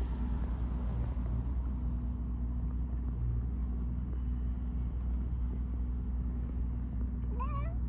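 A cat making an odd, faint, steady low droning sound in stretches with short breaks, over a constant low rumble; a brief rising sound comes near the end.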